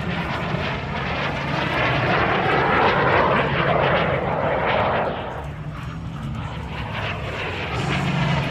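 Jet aircraft flying past at an air show: a loud rushing roar that swells to its loudest about three to five seconds in, eases off, then builds again near the end.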